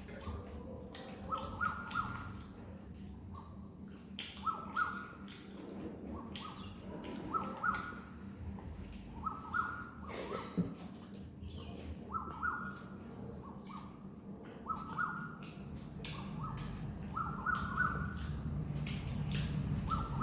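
A bird calling over and over in short calls, often in pairs or threes, about every second, with scattered sharp clicks of chewing and mouth sounds close to the microphone.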